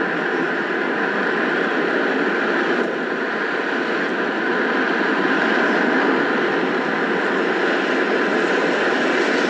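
Jet engines of a departing Boeing 777-300, a steady loud rush of noise with a faint steady whine running through it.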